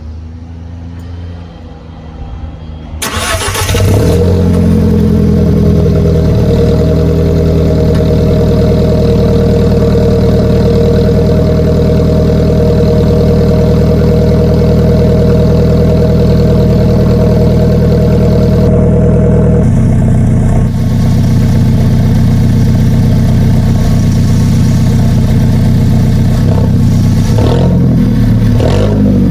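Alfa Romeo 4C's turbocharged 1.75-litre four-cylinder engine, fitted with the sports exhaust, starting: it catches loudly about three seconds in and runs at a steady fast idle. It settles to a lower idle about two-thirds of the way through.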